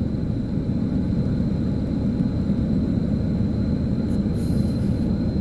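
Steady low rumble of vehicle engine and traffic noise, with a brief high hiss about four and a half seconds in.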